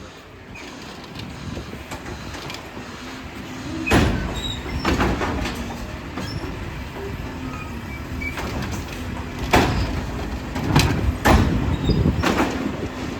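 Glass recycling truck's engine running, with several sharp crashes of glass being dumped: one about four seconds in, another a second later, then a cluster of crashes near the end.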